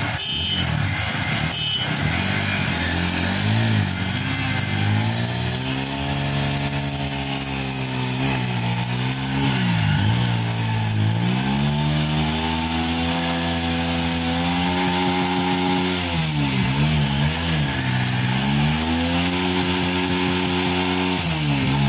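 Two single-cylinder motorcycle engines, from a TVS Apache RTR 160 4V and a Hero Achiever 150, revving hard under load as the rope-tied bikes pull against each other in a tug-of-war. The revs climb, hold and drop several times, with clear dips about ten seconds in and again a few seconds later.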